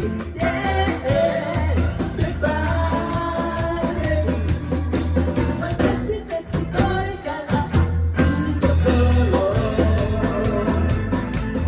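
Live band playing a song with a singer, bass and drums.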